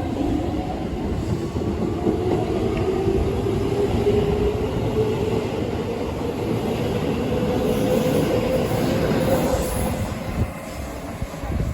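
Chiba New Town Railway 9100 series electric train pulling away: the traction motors' whine rises slowly in pitch as it accelerates, over wheel and rail rumble with some clatter over the rail joints. The sound drops off near the end as the cars pass.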